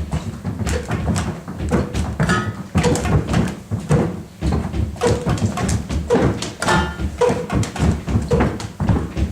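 A group of people making sounds with their feet on the floor, with irregular overlapping stamps, taps and scrapes and short squeaky sounds scattered among them.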